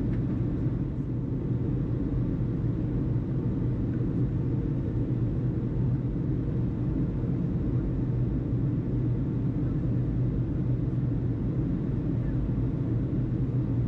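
Steady low mechanical rumble with a hum, unchanging throughout.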